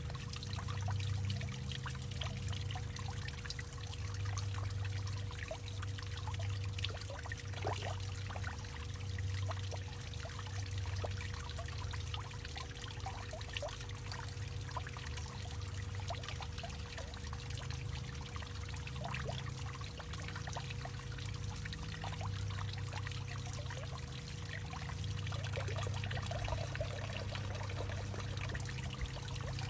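Water pouring and trickling steadily through a hollowed-out tree trunk, with many small splashing drips over a low, uneven rumble.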